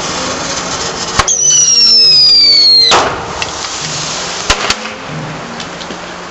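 Firework mortar going off: a sharp crack, then a loud whistle falling steadily in pitch for about a second and a half, cut off by a bang. A second sharp crack follows a moment later.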